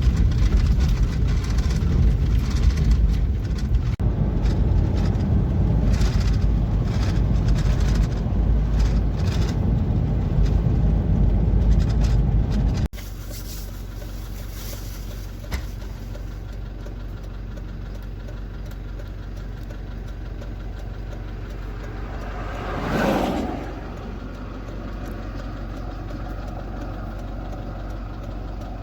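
Motor vehicle running: a loud low rumble cuts off abruptly about 13 seconds in and gives way to a quieter, steady engine hum. Something swells up and fades away around 23 seconds, like a vehicle passing by.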